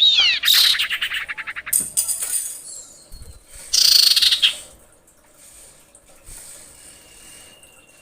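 Common iora calling: a loud falling whistle that runs into a fast trill over the first two seconds, another loud burst of calls about four seconds in, then fainter notes. This is the female's call, used as a lure to draw males.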